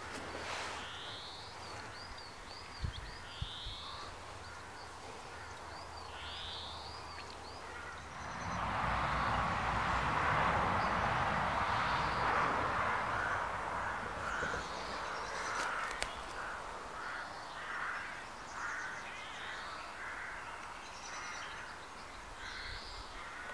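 Wild birds calling and chirping in trees, with short high notes repeating throughout and a run of evenly spaced harsher calls in the second half. A swell of rushing noise rises about a third of the way in and fades over several seconds; it is the loudest sound.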